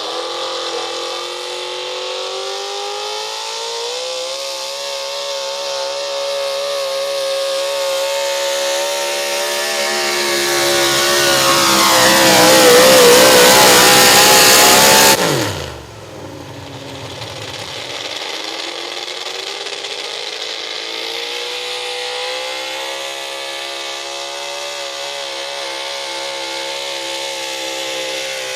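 Super stock pulling truck's engine running at high revs, growing louder to a peak, then the throttle is cut about fifteen seconds in and the revs fall away sharply before the engine settles into steady running again.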